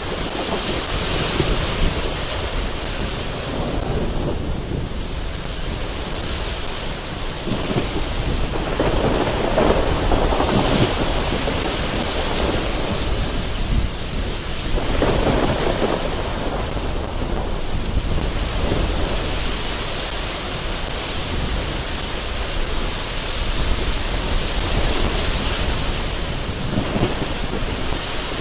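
Thunderstorm: heavy rain lashing against a window with gusting wind, a steady rushing noise. Thunder rolls in and swells several times.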